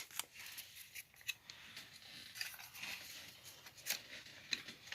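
Faint handling noise: scattered clicks, taps and rustles over a light hiss, with a few sharper ticks near the middle and toward the end.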